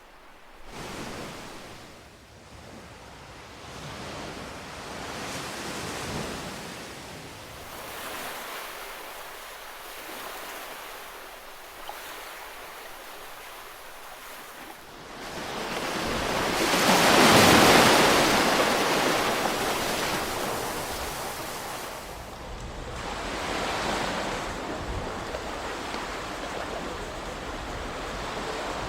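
Ocean waves washing in, in swells of noise a few seconds apart that rise and fall. The largest and loudest comes about halfway through.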